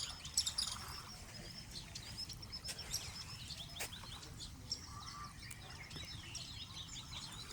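Wild birds chirping and twittering, many short high calls overlapping, over a faint steady low rumble of outdoor background noise.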